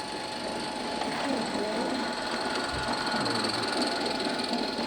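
16mm-scale live-steam garden railway locomotive running on the track: a steady mechanical run with hiss, and faint voices in the background.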